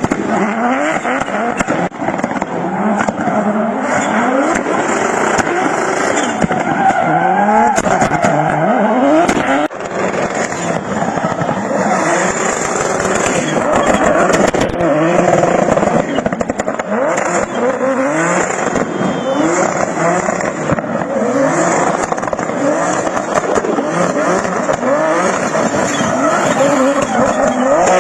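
A drift car's engine revving hard, its pitch climbing and falling again and again as the throttle is worked, over the noise of tyres squealing and skidding.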